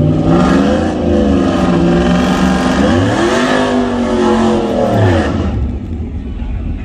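Vehicle engine revving: its pitch sags, climbs again to a peak a little past the middle, then drops away and fades out about five and a half seconds in.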